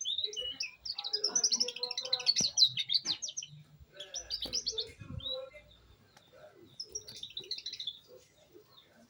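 Young domestic canary singing in bursts of fast repeated notes and trills, with short pauses between phrases. It is a juvenile just beginning to sing its rolling song.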